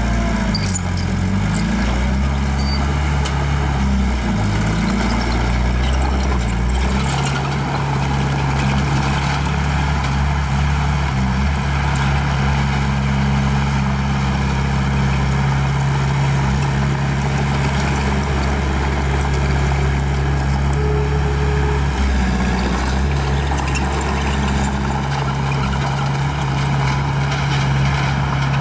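Small bulldozer's diesel engine running hard and loud. Its pitch rises and falls over the first several seconds, then holds steady, with a brief dip about 22 seconds in. A few scattered clanks come in the opening seconds.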